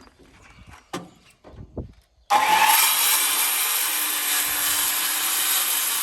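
A couple of knocks, then a worm-drive circular saw starts abruptly a little over two seconds in and cuts through a wooden board with a loud, steady noise.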